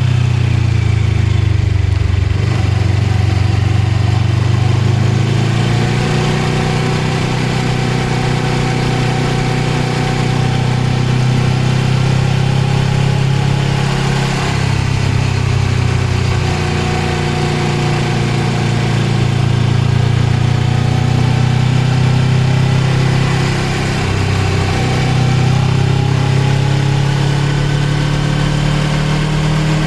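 Suzuki GSX250R's parallel-twin engine running on the move, its pitch rising and falling a few times with the throttle, over a steady rush of wind and road noise.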